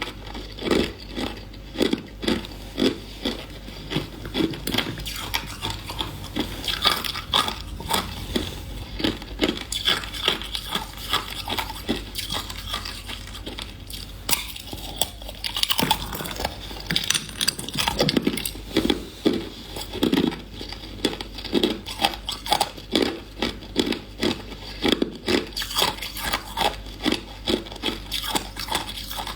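A person chewing hard ice up close, a steady run of crisp crunches about one and a half a second, with a quieter stretch about halfway through.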